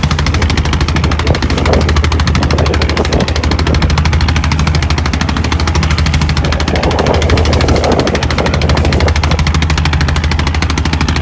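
Boat diesel engine running hard, a fast, even chugging over a steady low hum, with a brief swell of rushing noise about seven seconds in.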